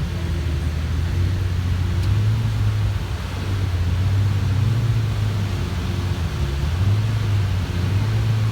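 Car engine running at low revs with a steady low drone that swells a little now and then, as a very low car creeps slowly over an obstacle it only just clears.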